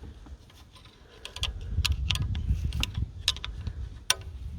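Irregular sharp clicks and taps of a flathead screwdriver levering the leak-off pipe connector off a diesel fuel injector, with one sharper click about four seconds in.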